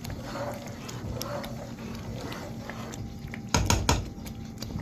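Stew simmering in a pot with soft popping and pattering, and a brief clatter of cookware about three and a half seconds in.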